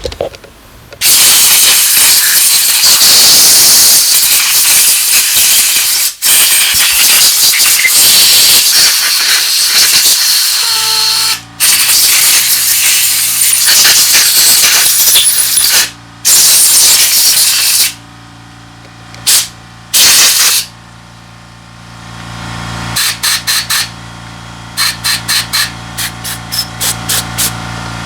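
A pressurized jet hissing through carburetor parts during cleaning: long continuous blasts, then two brief ones and a quick series of short bursts near the end. A steady machine hum runs underneath from about halfway through.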